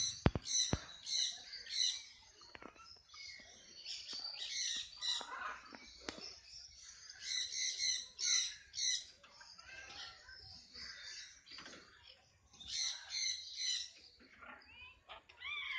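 A group of parrots chirping and squawking in bouts of high calls a second or two long, with quieter gaps between them. A few sharp clicks sound right at the start.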